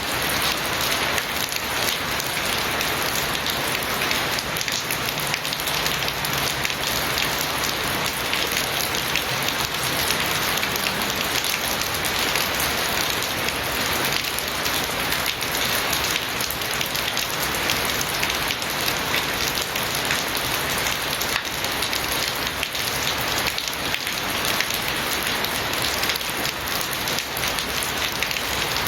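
Steady, heavy rain falling and pattering on surfaces.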